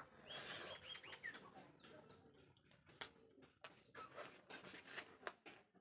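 Soft mouth clicks and smacks of chewing as food is eaten by hand. A short animal call sounds faintly in the first second and a half.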